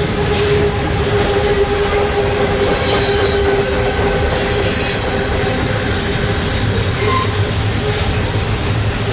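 Canadian Pacific manifest freight cars, boxcars and tank cars, rolling past on steel wheels. The wheels make a steady rumble with a steady tone running through it, and now and then a clack over the rail joints.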